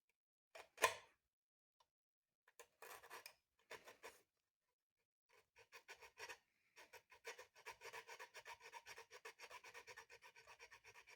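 Faint sandpaper rubbing on the breaker points of a 1932 Maytag washing machine engine, cleaning off light corrosion. A few scattered strokes come first, then quick, even back-and-forth strokes from about halfway on.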